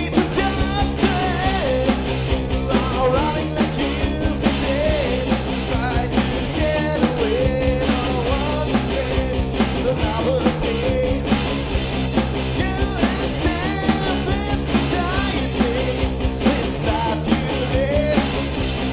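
Rock band playing a song: electric rhythm guitars and bass guitar over a steady beat.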